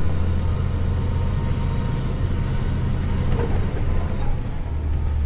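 Engine and road noise of a moving vehicle heard from inside its cab: a steady low drone whose pitch drops a little about three and a half seconds in.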